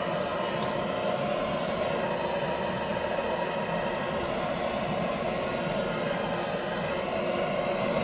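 Handheld gas blowtorch burning with a steady, even rush of flame, heating a copper pipe joint so the solder flows.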